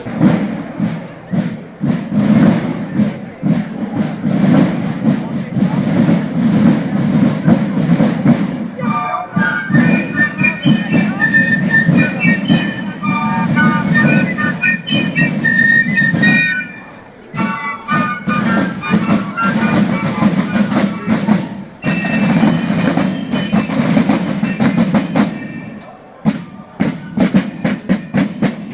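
Street drummers playing rapid rolling drum strokes that run throughout. From about a third of the way in, a run of short high notes like a piccolo tune sounds over the drumming for several seconds, then stops.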